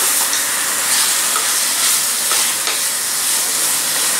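Chicken and masala sizzling steadily in a pressure cooker pan as a wooden spatula stirs through it, with a few soft scrapes along the way.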